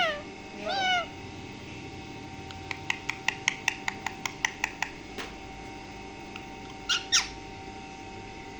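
Pet parrot calling: a short gliding call about a second in, then a quick run of about a dozen short sharp clicking chirps at roughly six a second, and two louder sharp squeaks near the end.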